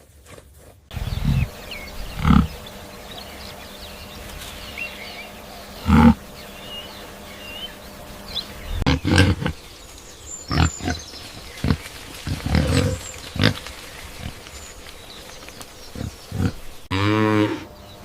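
Cattle: a series of short low sounds, then a moo near the end.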